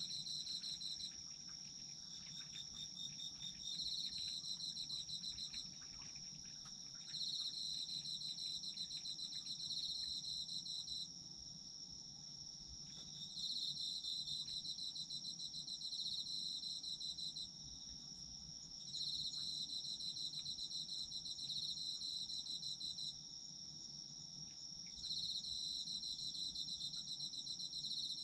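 Autumn crickets chirping. One keeps up a steady, unbroken high trill, while another sings a pulsed high chirp in bouts of a few seconds that return about every six seconds.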